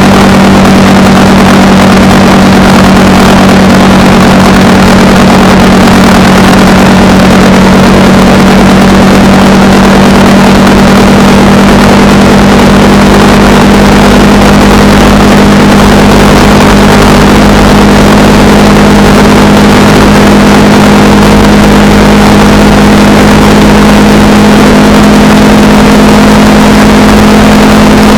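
Honda Rebel 300 single-cylinder motorcycle engine running steadily under way, its note holding at one pitch over a loud, even rush of noise.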